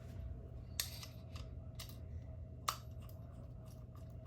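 Light clicks and taps of small hard parts of a track light fixture being handled, with two sharper clicks about a second in and near three seconds in, over a faint steady hum.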